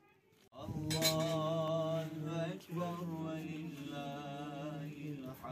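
Music: a male voice chanting long held notes with vibrato, setting in about half a second in, with a short break midway.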